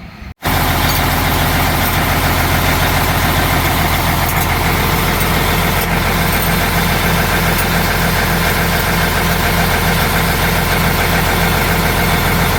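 Truck engine idling steadily, with an even low pulse.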